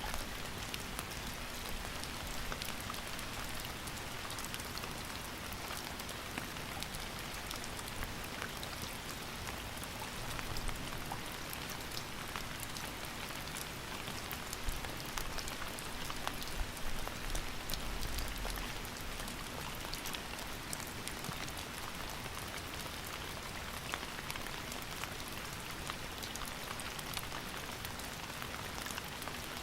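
Steady rain falling, with a dense patter of individual drops hitting a surface over a constant hiss.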